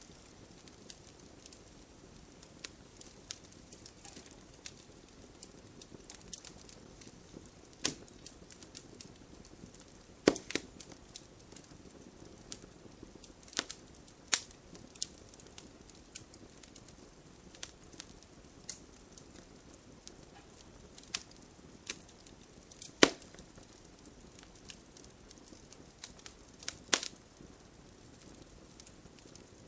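Wood bonfire crackling, with scattered sharp pops of varying strength, the loudest about 10, 23 and 27 seconds in, over a steady soft hiss of falling rain.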